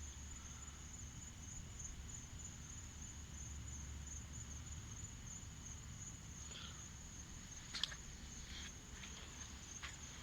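Night insects chirring in one high, steady, continuous note over a faint low rumble, with a few short clicks near the end.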